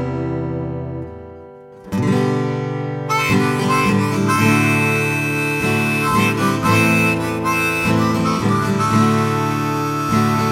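Instrumental music break in a gospel song, played on acoustic guitar and harmonica. A strummed chord rings and fades away, then at about two seconds the guitar strumming comes back in and the harmonica plays a melody over it.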